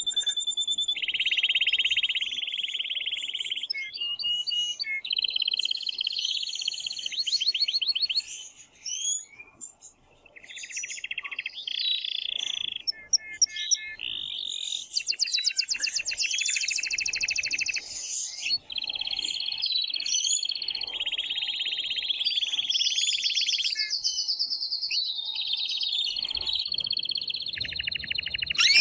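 Male canary singing an excited breeding song: a long string of rapid trills and rolls, each phrase held for a second or two before switching to a new one, with a brief pause about nine seconds in.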